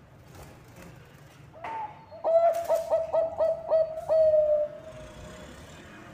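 Zebra dove (Bangkok perkutut) cooing: a short note, then a quick run of about six clipped coos ending in one long, slightly falling note.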